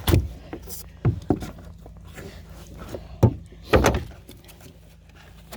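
A pry tool working wet pour-in flotation foam out from under a boat's gas tank, with several sudden knocks and thumps as it is pushed in and drawn back.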